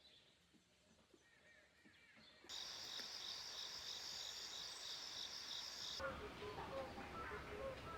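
Quiet at first, then a chorus of insects such as crickets chirping in steady pulses starts suddenly about a third of the way in. Near the end it cuts to a series of short pitched notes.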